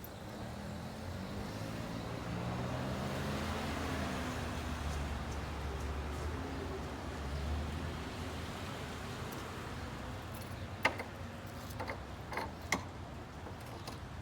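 A motor vehicle passing by: its engine rumble swells over a few seconds, drops in pitch as it goes past, then fades away. A few sharp clicks follow near the end.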